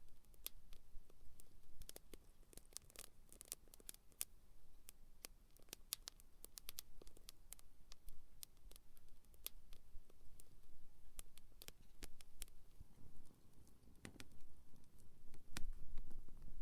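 Small wood fire crackling, with sharp, irregular pops and snaps from the burning sticks. A low rumble comes up near the end.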